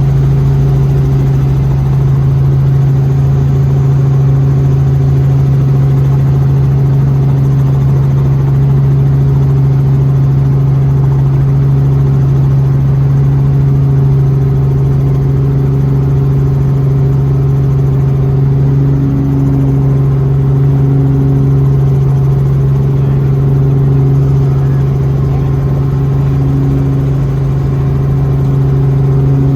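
Helicopter in flight, heard from inside the cabin: a loud, steady drone of engine and rotors dominated by an unchanging low hum.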